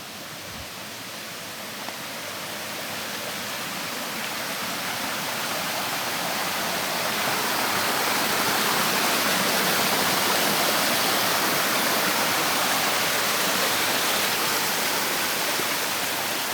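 Rushing water of the Dzhur-Dzhur waterfall, a steady wash of noise that grows louder over the first eight to ten seconds and then holds steady.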